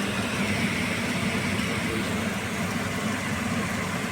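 A 6-ton package air-conditioning unit running steadily, its belt-driven blower turning on a newly fitted A52 V-belt. It sounds smooth, with no belt slap or squeal: the noise came from the broken old belt, and replacing it has cured it.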